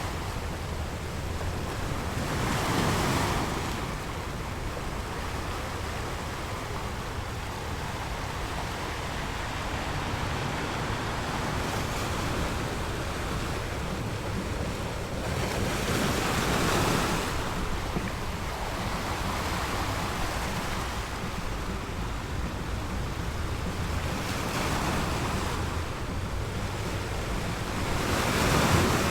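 Ocean surf washing ashore: a steady low wash of water, with waves swelling and breaking a few times.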